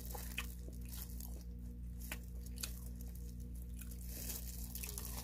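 Crispy fried chicken being bitten into and chewed close to the mouth: scattered sharp crunches with some tearing, over a steady low hum.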